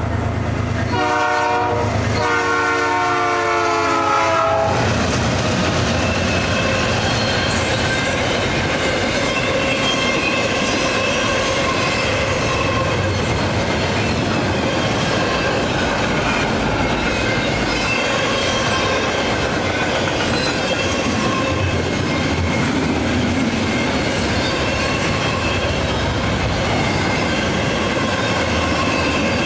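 A CN ES44DC diesel locomotive's air horn sounds its last blasts for the grade crossing, a chord broken twice and ending about four and a half seconds in. Then the freight train passes: the locomotives go by, followed by double-stack container cars clacking over the rail joints with wheels squealing.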